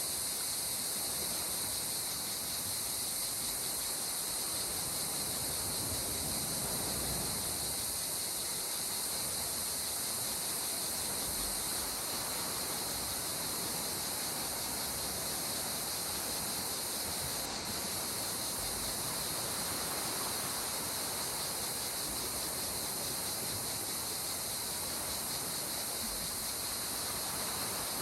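Gentle sea water washing with soft slow swells, under a steady high-pitched insect chorus of crickets.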